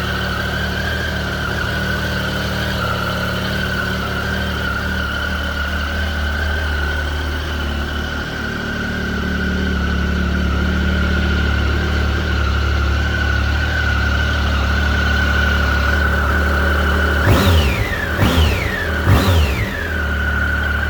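Triumph Tiger Sport's three-cylinder engine idling through an Arrow aftermarket exhaust, then revved three times in quick succession near the end. Each blip rises and falls quickly before the engine settles back to idle.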